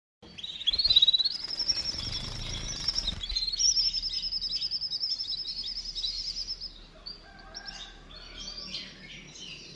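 Small birds calling: a fast, high, even trill for most of the first seven seconds, then a scatter of varied, shorter chirps.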